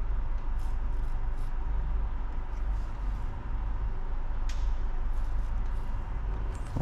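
Steady low rumble of an idling car engine heard inside the cabin, with a few faint soft taps.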